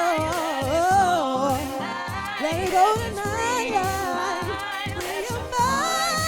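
A woman singing sliding vocal runs without clear words over music with a steady beat.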